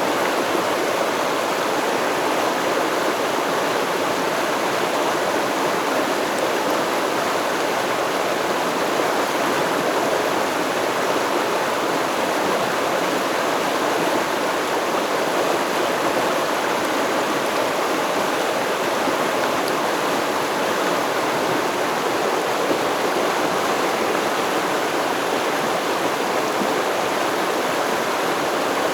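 Stream water flowing and babbling steadily over rocks, a continuous even rush without breaks.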